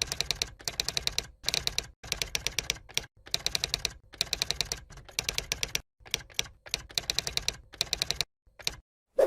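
Oriental magpie-robin (kacer) giving agitated rattling chatter: phrases of fast dry clicks, about a dozen a second, repeated with short pauses. The bird sounds worked up, the state this training recording is meant to stir in another kacer. Near the end the phrases turn short and sparse.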